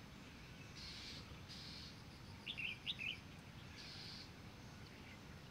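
Faint outdoor ambience with birds chirping: a quick run of short high chirps near the middle, and a few brief high trills before and after it.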